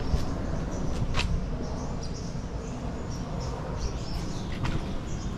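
Small birds chirping over a steady low rumble, with a sharp tick about a second in and another near the end.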